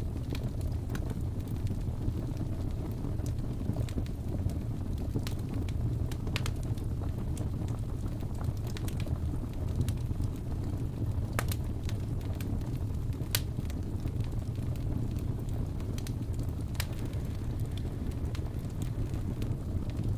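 Wood fire burning with a steady low rumble and scattered sharp pops and crackles.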